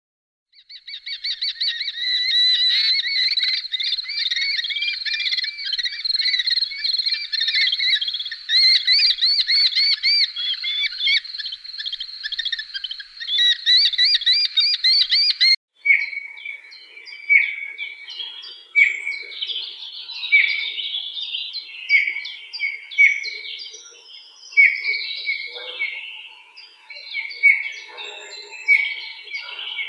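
Birds chattering: a dense, continuous warbling chorus of chirps that cuts off abruptly about halfway. It is followed by repeated short bird calls, roughly one every second and a half, with scattered chirps between them.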